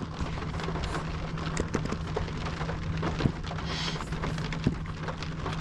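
Rain pattering on a car's roof and windshield, heard from inside the cabin as a dense hiss of irregular drop ticks, over a steady low hum.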